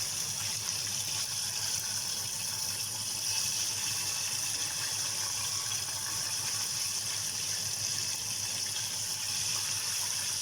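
Flour-coated chicken drumsticks deep-frying in hot cooking oil: a steady, even sizzle.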